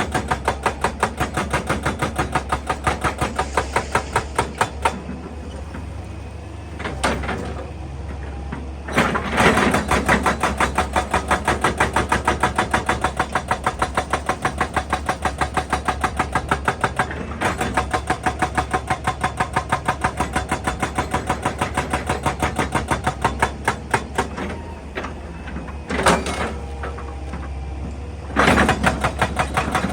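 Excavator-mounted hydraulic breaker hammer pounding rock in a fast, even run of blows, several a second, over the excavator's diesel engine running steadily. The hammering stops twice for a few seconds, leaving only the engine, then starts again.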